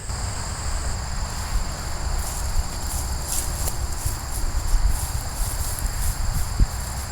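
Insects trilling steadily in two high, unbroken tones, over a low rumble and a few brief rustles.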